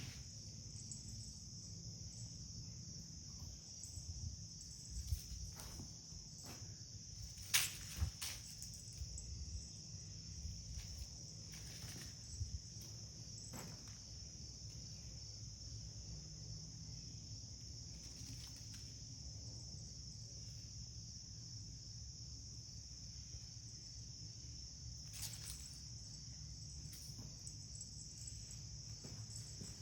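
Steady high-pitched chirring of insects, constant throughout, over a low hum, with a few faint knocks or steps.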